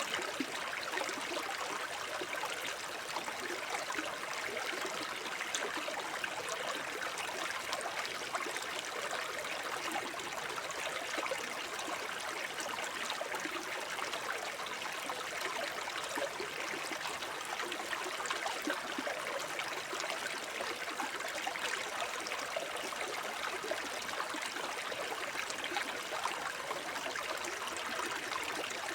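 Shallow forest brook babbling and gurgling over stones. It runs steadily, with a dense patter of small splashes.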